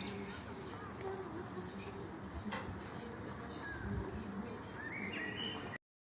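Several birds chirping and singing in short, quick rising and falling notes over a steady background hum of the surroundings, cutting off abruptly near the end.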